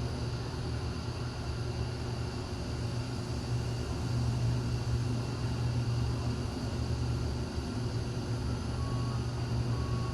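Hyundai passenger elevator car travelling between floors, heard from inside the cab: a steady low hum and rumble.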